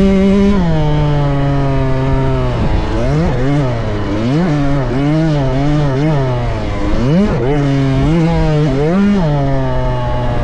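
A KTM 65 youth motocross bike's small two-stroke engine, revving up and down repeatedly as the throttle is worked. It holds steady for a couple of seconds, then comes a run of quick rises and falls, with a bigger swing about seven seconds in.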